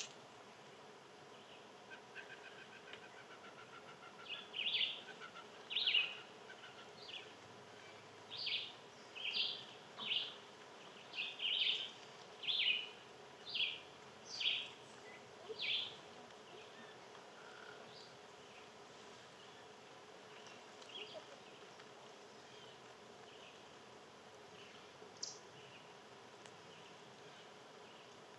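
A small wild animal giving about a dozen short, high calls, roughly one a second, over a low steady outdoor background, then only faint scattered chirps.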